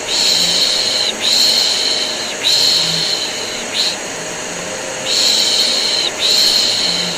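Rhythmic baby-soothing shushing, long 'shh' strokes of about a second each with a short pause near the middle, over the steady running of a vacuum cleaner.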